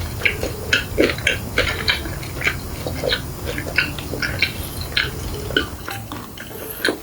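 Close-miked chewing of a mouthful of food, with irregular wet smacking clicks several times a second.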